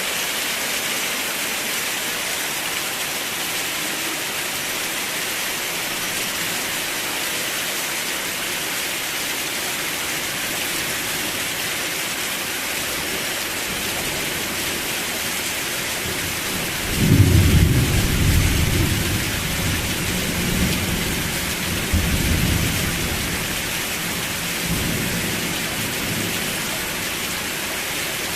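Steady rain falling in an even hiss. More than halfway through, a low rumble of thunder breaks in suddenly and rolls on for several seconds, swelling again twice before fading back under the rain.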